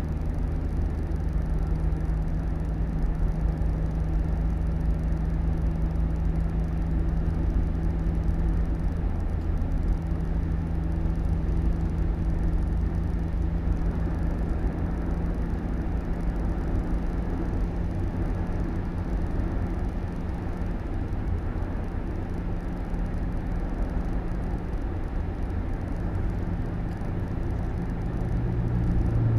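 A car running steadily, its engine and road noise making a continuous low rumble with a steady drone.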